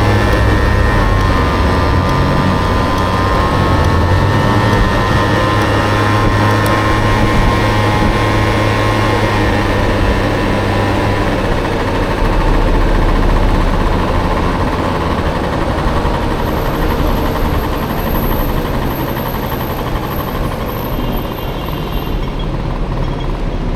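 Honda Motocompo with a swapped-in Honda Dio two-stroke scooter engine, running under way. Its note climbs at the start, holds a steady pitch, then fades after about ten to fifteen seconds, over constant road and wind rush.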